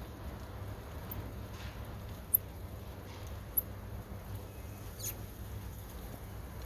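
A few short, high squeaks a second or so apart, typical of a stripped optical fiber being wiped squeaky clean with an alcohol wipe before cleaving. A steady low hum runs underneath.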